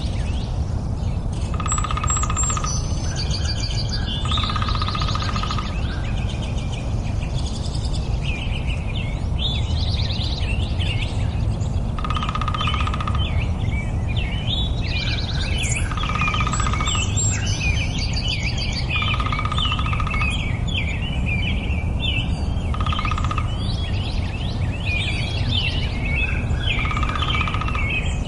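Songbirds singing in varied, rapid chirping and warbling phrases, with a short lower note that comes back every few seconds, over a steady low background rumble.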